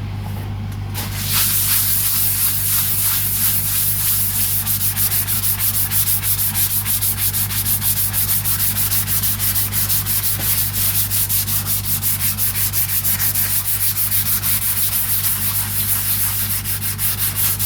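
Sandpaper rubbed by hand over a Telecaster guitar body in quick back-and-forth strokes, about three a second, starting about a second in. A steady low hum runs underneath.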